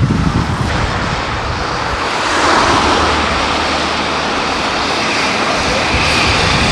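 A steady engine drone that grows a little louder about two and a half seconds in.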